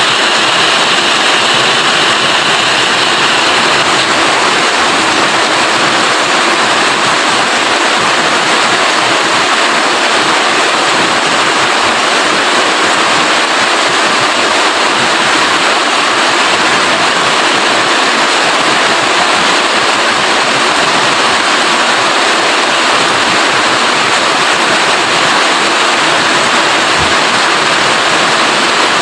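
Heavy rain falling, a steady, dense hiss without let-up.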